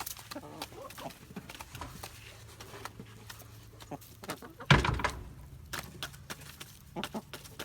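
Chickens pecking at crickets on the ground: a scatter of quick, sharp pecking taps, with one louder thump a little under five seconds in.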